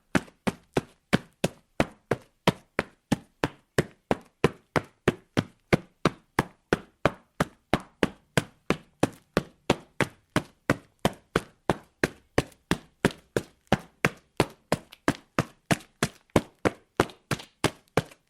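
Footsteps of a person running on concrete: sharp, even footfalls at a steady pace of just under three steps a second.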